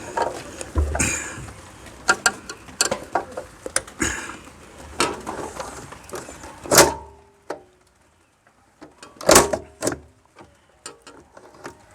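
Metal parts of a three-phase main switch being handled and pushed into place: a string of small clicks and knocks, then two louder metallic knocks about seven and nine and a half seconds in, the first ringing briefly.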